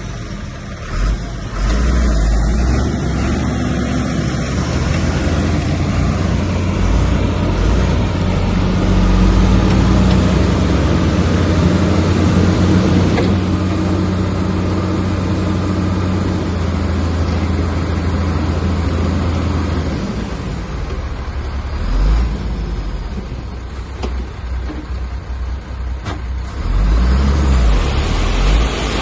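Heavy diesel engine of a bulldozer working under load. It runs steadily for the first two-thirds, eases off, then surges briefly twice near the end.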